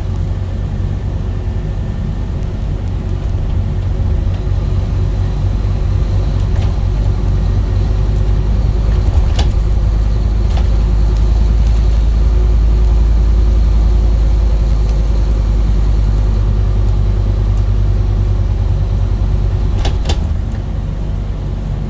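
Scania N230UD double-decker bus's diesel engine running on the move, a steady low drone that grows louder through the middle and eases off near the end. A few short clicks or rattles come midway and again near the end.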